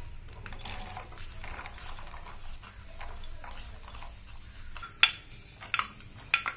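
Chopped coconut pieces poured into hot coconut oil in a nonstick kadai and starting to sizzle and crackle. Near the end come a few sharp clinks as the bowl is emptied into the pan with a spoon.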